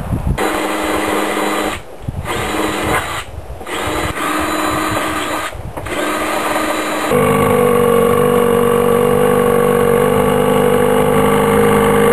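A motor running steadily with a constant whine, broken by a few short dropouts. About seven seconds in it changes abruptly to a louder, steadier hum.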